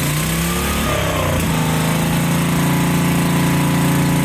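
Generac SVP 5000 portable generator's engine, just started on choke, rising in pitch over the first second and a half, then settling into a steady run.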